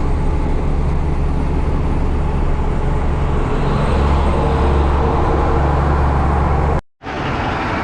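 Heavy diesel truck engine running with a steady low drone; the deep part grows stronger about halfway through. Near the end the sound cuts out for a split second and a similar engine sound resumes.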